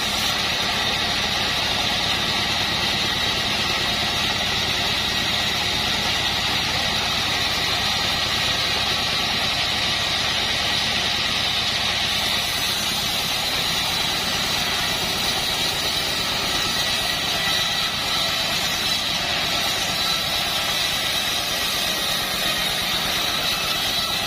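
Assembled band sawmill running steadily, a constant machine drone with a high, steady whine over it.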